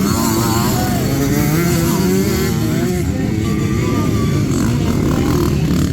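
Motocross bike engines running hard, their pitch rising and falling as the throttle opens and closes.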